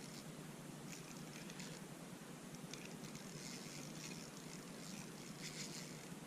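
Faint scattered rustles and light clicks over a steady low hum: jigging rod and reel being handled while a hooked fish is fought up through an ice hole.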